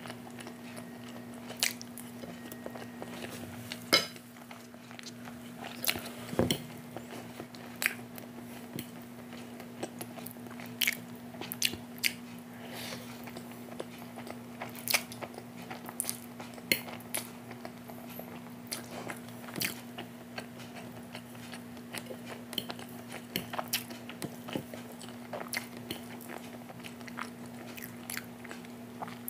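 Close-miked chewing and biting of Maggi instant noodles and halved boiled egg, with sharp wet mouth clicks and smacks scattered irregularly.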